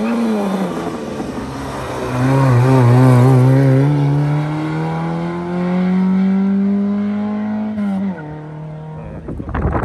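Rally car engine dropping in pitch as the car slows into a hairpin. The note wavers as the car pulls out, then rises steadily under hard acceleration and drops sharply at a gear change about eight seconds in, fading as the car drives away.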